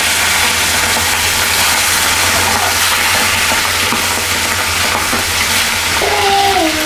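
Marinated octopus pieces deep-frying in hot oil in a wok, sizzling steadily as more pieces are dropped in.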